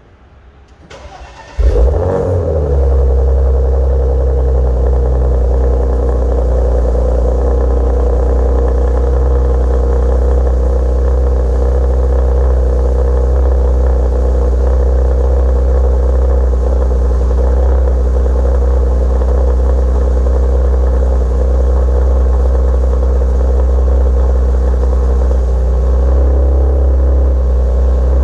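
2018 Porsche Macan GTS twin-turbo V6 with a full TechArt exhaust, cold-started: a brief crank, then it catches about a second and a half in with a loud flare of revs and settles into a steady cold idle.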